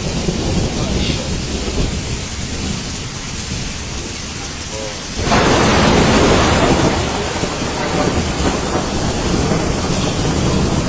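Storm noise: steady heavy rain with low rumbling thunder. It turns louder and harsher about five seconds in.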